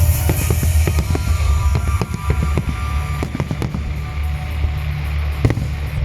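Fireworks popping and crackling in quick irregular bursts, with a sharper bang near the end, over loud music with a heavy steady bass.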